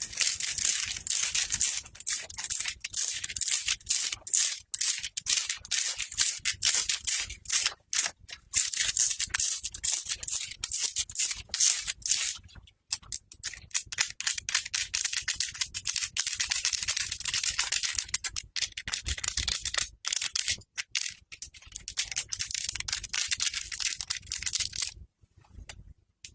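Close-miked scratching and rustling of clothing fabric in quick, irregular strokes with short pauses, stopping about a second before the end.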